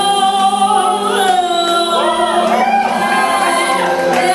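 A voice singing a long held note, then a run of quickly wavering, bending notes.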